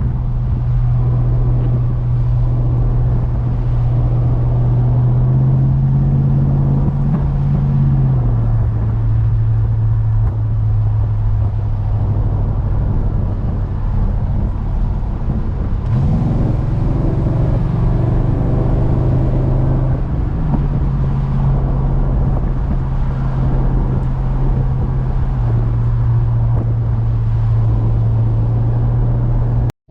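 Chevrolet Chevelle engine running through a new 2.5-inch dual exhaust with single-chamber mufflers, idling with a deep, steady note. It is given light throttle twice: a short rise about five seconds in and a quicker rise past the middle that holds a few seconds before settling back to idle.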